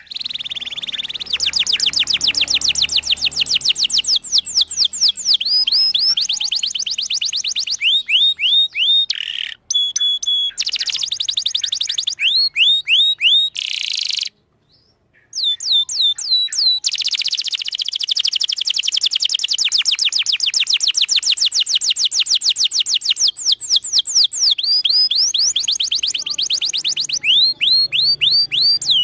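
Domestic canary singing long, fast trills of rapidly repeated high notes, moving from one trill type to the next, some notes sweeping down in pitch. The song stops abruptly for about a second near the middle, then resumes.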